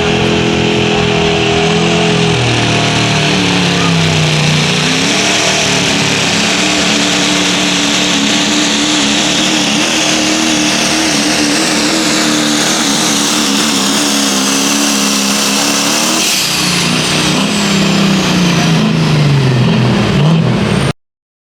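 Diesel pulling truck's engine running hard under load down the track, its pitch dipping and recovering several times, with a high whine that falls near the end. The sound cuts off abruptly just before the end.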